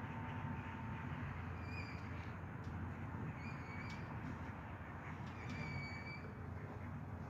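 A bird calling three times, short clear calls spaced a second or two apart, over a steady low outdoor rumble.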